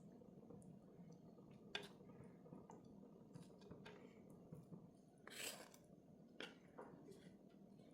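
Near silence: room tone with a few faint, light clicks and a short rustle about five seconds in.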